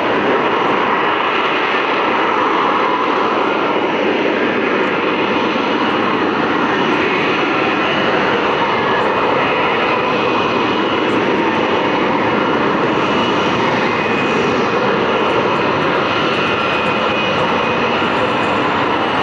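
Propeller airplane's engine running steadily and loud, a fixed-wing aircraft flying past without letup.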